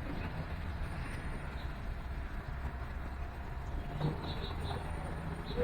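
Steady low rumble of distant city traffic, with a few faint, high bird chirps about four seconds in.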